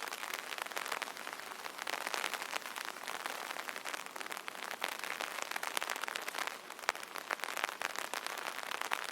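Rain falling on an umbrella canopy: a steady patter of dense, irregular raindrop taps on the fabric.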